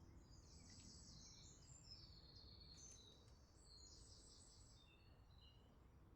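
Faint songbird song: high-pitched rapid trills and short whistled phrases over a low hiss, thinning out in the last second or so.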